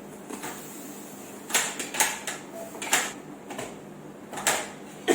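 Kitchen knife chopping onions on a cutting board: a handful of sharp, irregular chops, bunched mostly in the middle.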